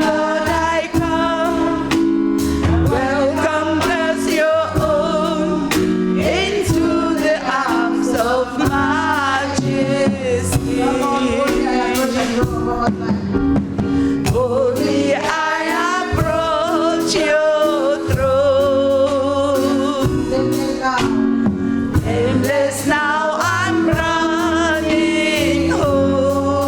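Gospel song performed live: singing with wavering, vibrato-laden held notes over steady held chords and a drum beat.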